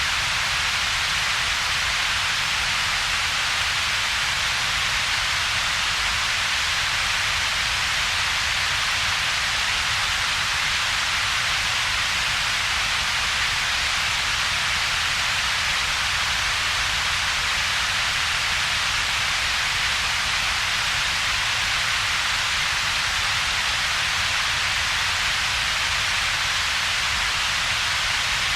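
Steady synthetic double-peaked noise: a bright hiss centred around 2 to 4 kHz together with a separate low rumble, with a gap of near quiet between them. It does not change.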